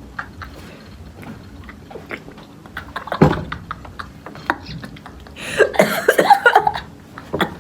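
Someone chewing a mouthful of raisins (kishmish), with wet mouth clicks throughout. There is a sharp knock about three seconds in, and a louder, busier burst of sound for about a second and a half near the end.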